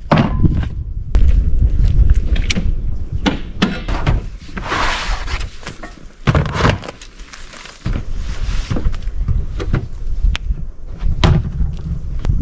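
Thuds, knocks and rustling as food and camping cooking gear are unpacked from the back of a pickup truck, with several sharp door-like thunks.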